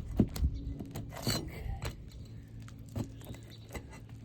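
A handful of sharp clicks and knocks with a brief scrape about a second in: a tool working overdriven roofing nails loose from asphalt shingles.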